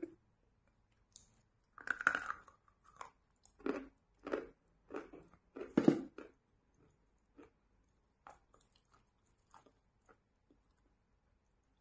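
Chewing a mouthful of chalk dipped in wet chalk paste, with crunches. A loud crunch comes about two seconds in, then a run of chews about two a second that turn soft and sparse after about six seconds.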